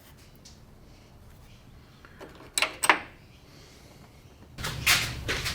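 Two sharp knocks close together, then louder irregular clattering near the end, like parts or tools being handled on a bench.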